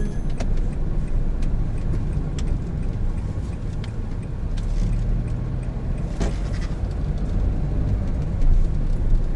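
Steady low rumble of a moving car, a 2017 Honda N-BOX Custom with a 660 cc turbo engine, heard from inside the cabin. A few light clicks are scattered through it, mostly near the middle.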